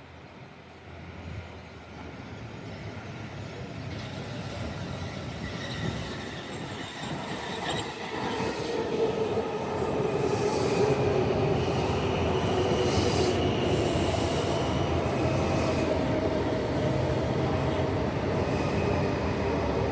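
Washington Metro Red Line train coming in, growing louder over about ten seconds and then running steadily. A whine falls slowly in pitch, and from about ten seconds in the wheels squeal in short high screeches.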